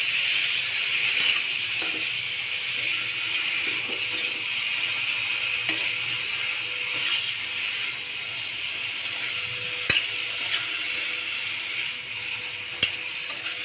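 Brinjal pieces frying in oil and spice masala in a metal kadhai, a steady sizzle, while a metal spoon stirs and scrapes them through the pan. Two sharp clinks of the spoon against the pan, one about ten seconds in and one near the end.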